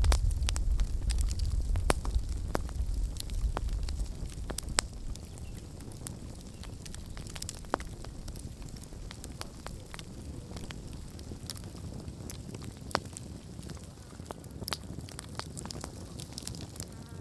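Wood campfire burning, crackling with frequent sharp, irregular pops and snaps. A low rumble under it is strongest in the first four seconds, then eases off.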